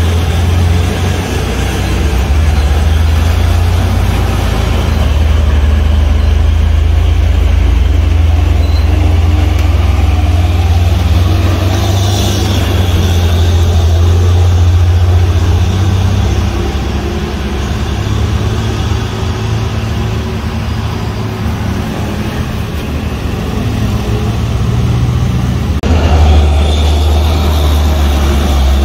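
Heavy truck engine running loudly with a deep steady drone, among road traffic. A brief hiss about twelve seconds in, and the engine grows louder again near the end.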